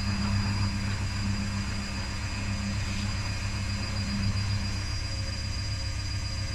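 Electrolux front-loading washing machine spinning up its drum on the spin cycle: a steady motor-and-drum hum with a thin high whine over it. Part of the lower hum drops away near the end.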